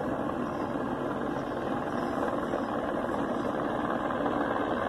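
A steady engine drone with no break or change.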